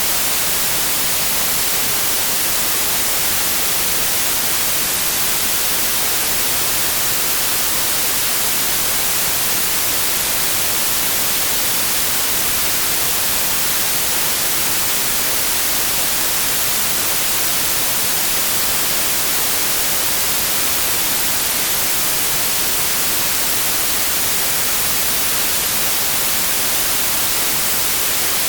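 Synthetic white noise: a steady, even hiss with no changes or events.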